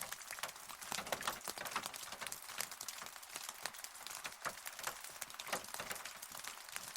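Rain falling, with many close drops ticking sharply and irregularly over a steady hiss.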